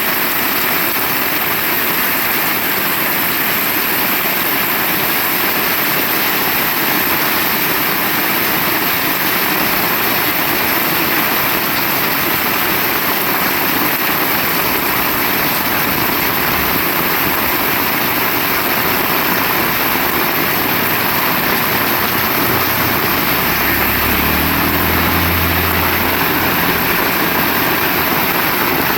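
Heavy rain falling in a steady, even hiss. A low hum comes in underneath about twenty seconds in and fades out a few seconds later.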